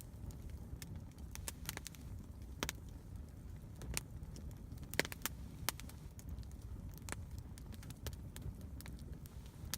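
Wood campfire crackling: irregular sharp pops and snaps over a low steady rumble, with a few louder pops around the middle.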